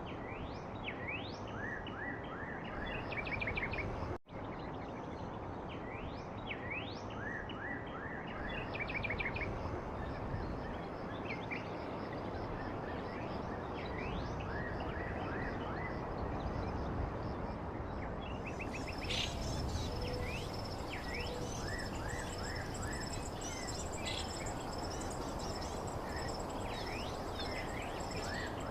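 Birds chirping in quick repeated calls over a steady background hiss. A high, steady buzzing tone joins about two-thirds of the way in. There is a brief dropout about four seconds in.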